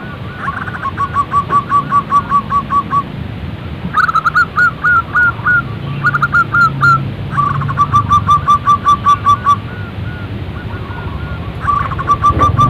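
Zebra doves calling: several phrases of quick, repeated staccato cooing notes, each a second or two long, with short pauses between them.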